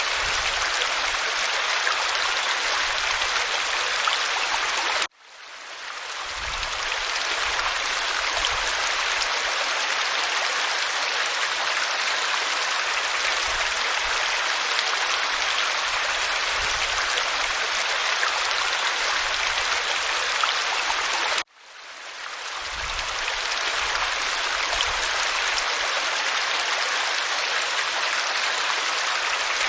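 Waterfall splashing over rock, a steady hiss of rushing water. It cuts out suddenly twice, about five seconds in and again near twenty-one seconds, and each time fades back in over a second or two.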